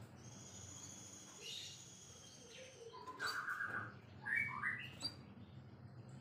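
White-rumped shama singing: a long, thin, high whistle held for about two and a half seconds, then short, lower, warbling phrases about three and four and a half seconds in.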